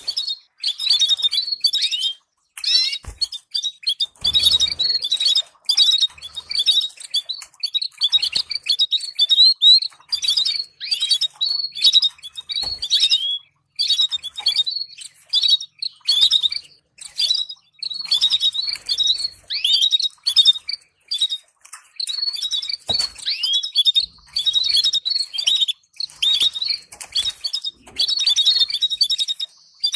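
Domestic canary singing a long, fast song of rapid chirps and rolling trills, in phrases of a few seconds with brief pauses, used as a training song to stimulate other canaries to sing.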